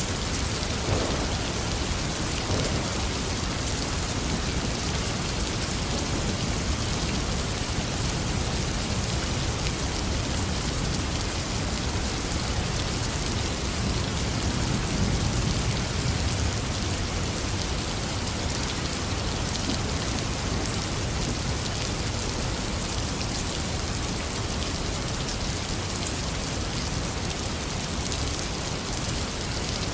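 Heavy rain pouring steadily, with a low rumble of thunder swelling about halfway through.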